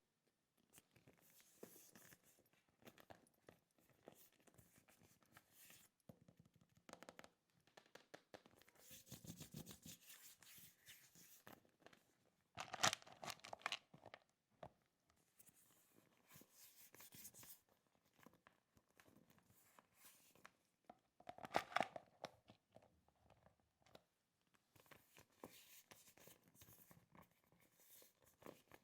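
Faint crinkling and tearing of packaging being handled, with scattered small clicks and two louder crackly rustles about 13 and 22 seconds in.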